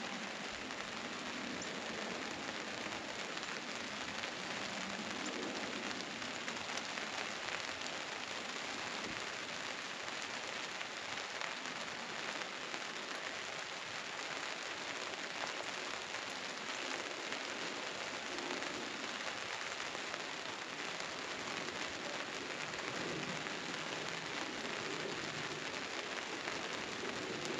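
Steady rain falling, an even hiss of drops pattering on surfaces that holds level throughout.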